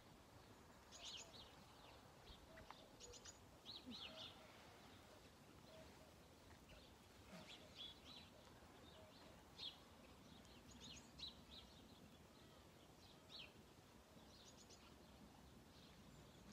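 Faint songbird chirps and short twittering calls, a few every couple of seconds, over a near-silent outdoor background.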